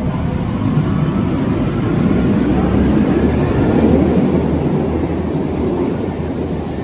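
Berlin U-Bahn large-profile train running on the track, a loud low rumble of wheels and motors that swells to a peak about four seconds in and then eases off.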